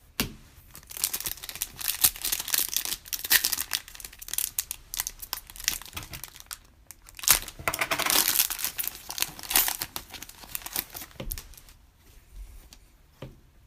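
A trading-card pack's foil wrapper being torn open and crinkled in the hands, a dense crackling that comes in two heavy spells with a short lull between, then dies away into a few small clicks.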